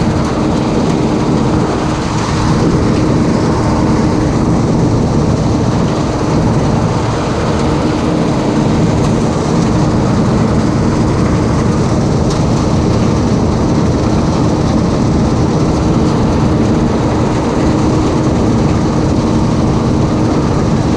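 Farm diesel engine running steadily under load, a loud continuous drone with a constant low hum and no changes in speed.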